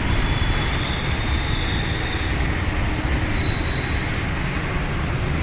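Steady low rumbling background noise, with a faint thin high whine that fades out about halfway through and returns near the end.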